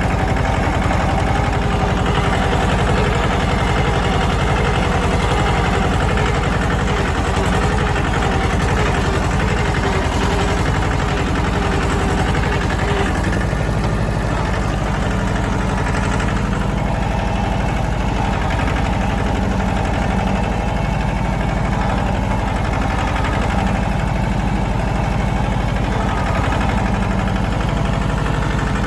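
Mahindra Jivo 305 DI tractor's small two-cylinder diesel engine running steadily. About halfway through its note shifts slightly and a steady whine drops out.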